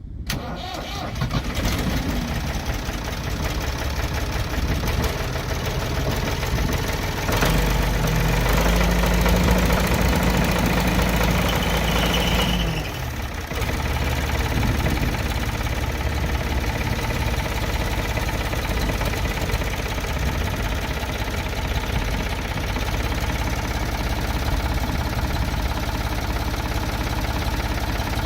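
1984 Ford 555B tractor loader backhoe's four-cylinder diesel engine running with a knocking diesel clatter; about seven seconds in it speeds up for about five seconds, then drops back and runs on steadily.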